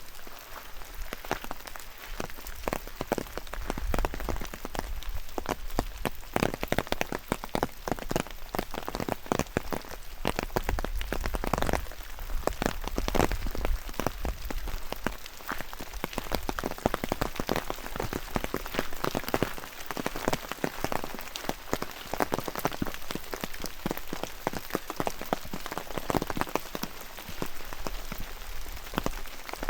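Rain falling, a dense, irregular patter of many drops striking close by, over a steady hiss of rainfall.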